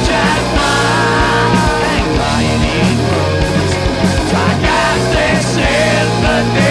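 Punk/grunge rock band playing live in an instrumental passage without vocals: drums hitting steadily under loud electric guitars and bass, with a lead guitar line wavering in pitch.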